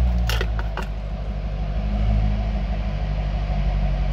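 A 2010 Chevrolet Corvette's 6.2-litre LS3 V8 with dual-mode exhaust, idling steadily just after starting. A few sharp clicks come in the first second.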